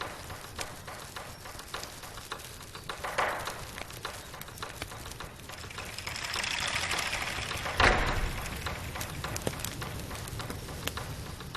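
A fire crackling with many small pops. About six seconds in it swells into a louder rushing blaze, flaring sharply about two seconds later, as the flames take hold.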